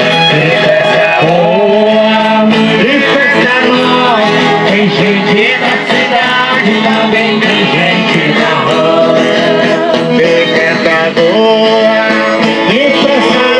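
Eight-bass button accordion (sanfona de 8 baixos) playing a folk tune in a folia group, with voices singing along.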